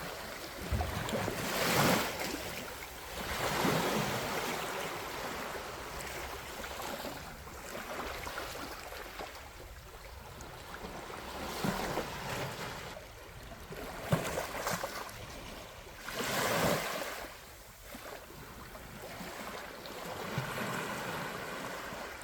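Sea waves breaking on a sandy beach, the surf swelling and falling back in several surges a few seconds apart.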